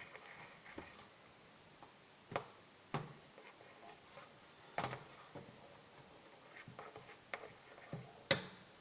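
A spoon knocking and scraping against a plate while margarine is added and mixed in: a handful of separate sharp clicks, the loudest near the end.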